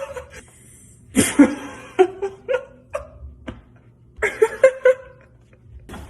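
A person laughing in a few short bursts.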